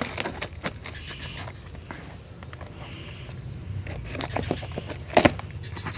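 A shipping package being handled and opened: scraping, tearing and crinkling, with a sharp knock about five seconds in.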